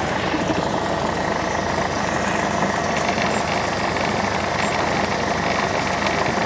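Light aircraft's piston engine and propeller running steadily, with an even, unchanging engine noise.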